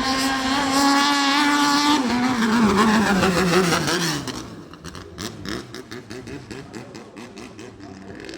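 A racing boat's engine running hard at a high steady pitch, then its pitch sliding down over about two seconds as it passes and fades. After that it is much quieter, with a rapid run of sharp crackles.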